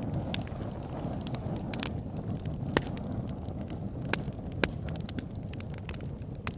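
Wood fire burning in a fireplace: a steady low rumble of flames with irregular sharp crackles and pops, the loudest about three seconds in and again around four and a half seconds.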